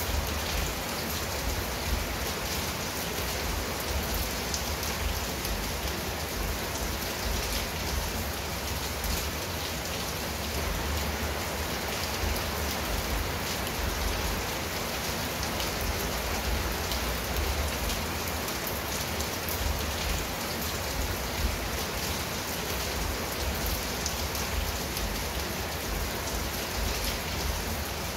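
Steady rain falling on a clay-tiled roof and leaves: an even hiss of drops sprinkled with many small pattering ticks, over a low rumble.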